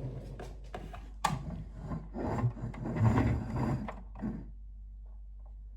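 Irregular rubbing and scraping with a few sharp knocks for about four seconds, then stopping and leaving a low steady hum.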